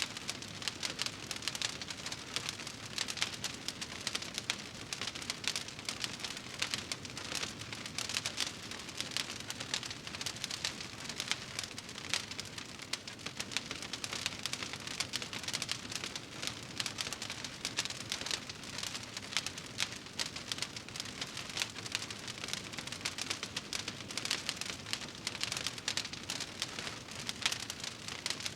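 Wood fire in a fireplace crackling steadily, with a dense stream of small pops and snaps.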